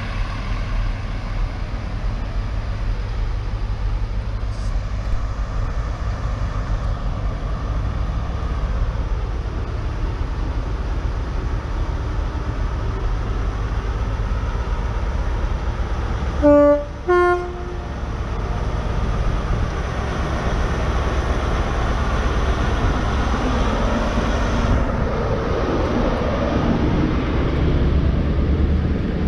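Diesel train engine running steadily, with a two-note horn toot about halfway through: a short lower note, then a slightly higher one. The engine sound builds over the last several seconds.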